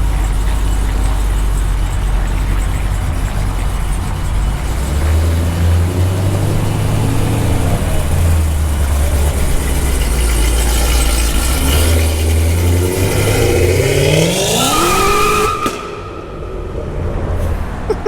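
High-powered car engine running at a steady low rumble, then revving up in a rising sweep over about three seconds before dropping off abruptly near the end.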